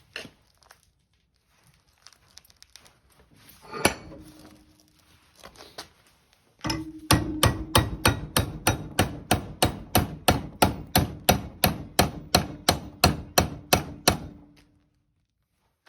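Hammer striking: a single blow, then a fast, even run of about three blows a second for some eight seconds, with a ringing tone carrying through the strikes.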